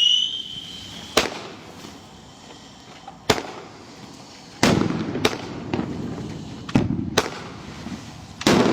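Sky shot fireworks going off: a fading whistle in the first second, then about seven sharp bangs at irregular intervals, some in quick pairs, several trailing off in a noisy rumble.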